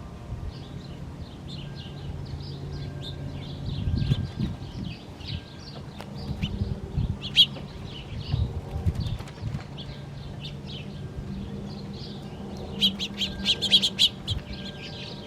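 Small birds chirping, many short high chirps overlapping, with a busier flurry near the end. A low steady hum and a few dull bumps lie underneath.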